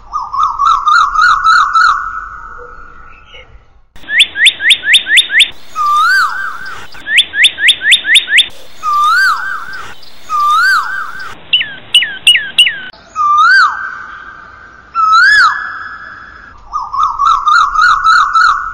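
Birds singing: a string of different whistled phrases with short gaps between them. There are fast chattering trills, runs of five or six quick high notes that each sweep downward, and single notes that rise and fall.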